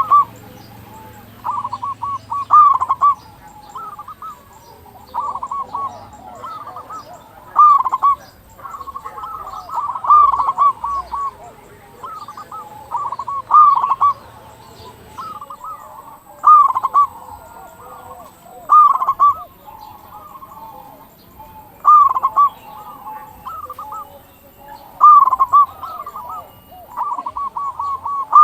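Zebra doves (perkutut) cooing, a loud rolling coo phrase every two to three seconds with quieter coos in between.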